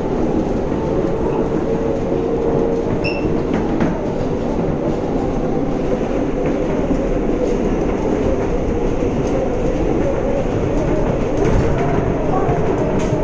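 Inside a New York City Subway 7 train car running between stations: a steady rumble of wheels on the rails and the car's running hum, with a few faint clicks from the track.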